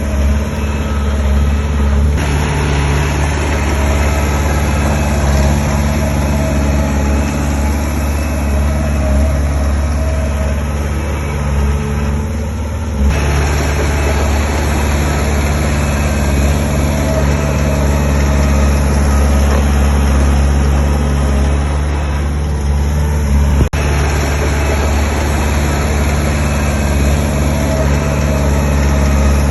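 Diesel engine of heavy construction machinery running steadily, with a deep, even hum. The sound changes abruptly about 13 seconds in and again near 24 seconds.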